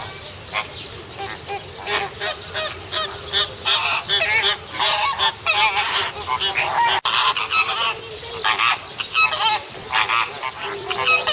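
A flock of birds calling loudly, many overlapping calls coming thick and fast.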